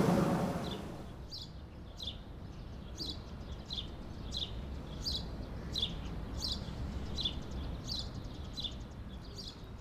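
A bird repeating a short high chirp about twice a second over a low steady outdoor rumble. The tail of harmonica music fades out in the first second.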